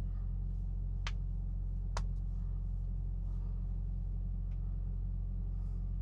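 Semi truck's engine idling, a steady low drone heard inside the cab, with two faint clicks about one and two seconds in.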